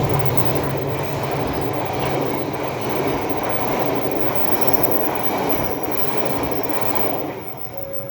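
Train cars rolling past on a curve, a steady rumble of wheels on rail that falls away about seven seconds in.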